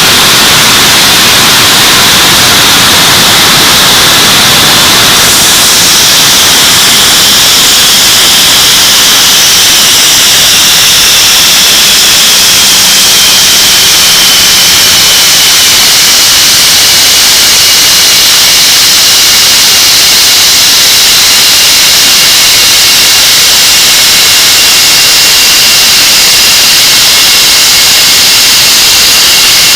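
English Electric Lightning's Rolls-Royce Avon turbojets running during a ground engine run: a very loud, steady rushing roar with a high whine on top, which sinks slightly in pitch about ten seconds in and then holds.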